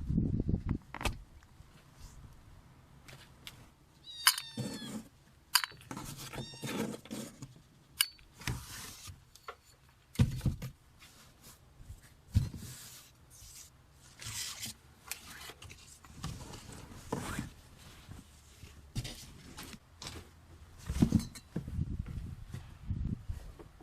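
A rescued kitten meowing a few times, short calls in the first third, among scattered clicks, thumps and rustling.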